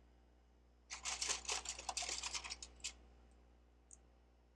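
Plastic Lego pieces clicking and rattling against each other as they are handled, a quick run of clicks lasting about two seconds starting about a second in, then one faint tick near the end.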